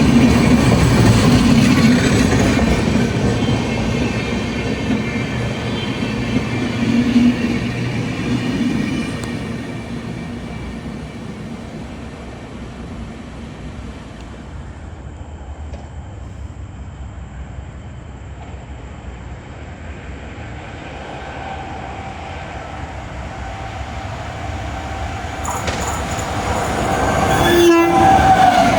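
A train running past and fading away over the first dozen seconds, then another train approaching. As it nears, a steady tone grows louder and drops in pitch as the train passes near the end.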